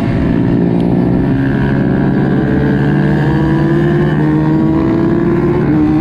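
Kawasaki KX85 two-stroke dirt bike engine running hard under load. Its pitch climbs steadily and drops back twice, about four seconds in and near the end, as it shifts up.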